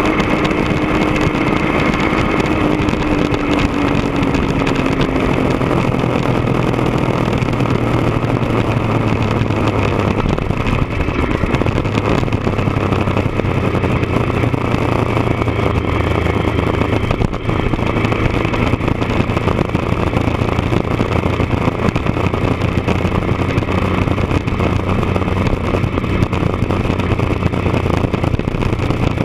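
1999 Triumph Daytona 955i's inline three-cylinder engine running steadily through a D&D aftermarket exhaust, a loud, even exhaust note with a dense rushing noise over it.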